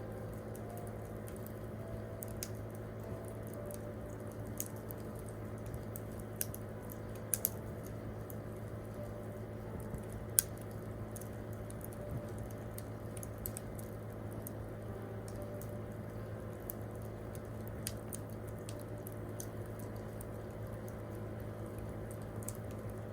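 Wood campfire crackling, with irregular sharp pops and snaps, the loudest about ten seconds in, over a steady low hum.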